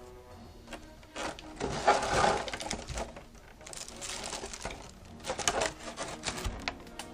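Statue packaging being handled during unboxing: plastic and cardboard rustling and crinkling in several bursts, the loudest about two seconds in, with a few sharp crackles near the end.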